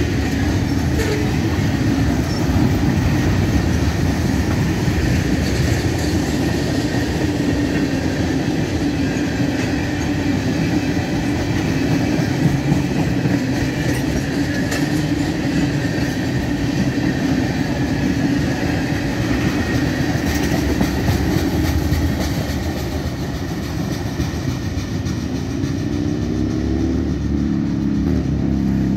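Freight train's covered hopper and tank cars rolling past: a steady rumble of steel wheels on the rails, with scattered clicks from the wheels.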